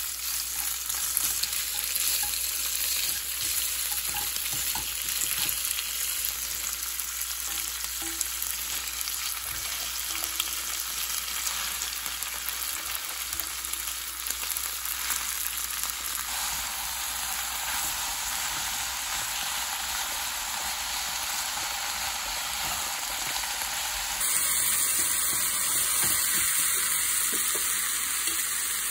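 Sliced ham, garlic and spinach sizzling in olive oil in a nonstick frying pan as they are stir-fried with wooden chopsticks. The sizzle is steady and gets louder for the last few seconds.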